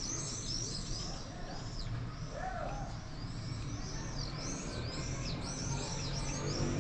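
Small birds chirping in quick, repeated arched notes, over a steady low background rumble.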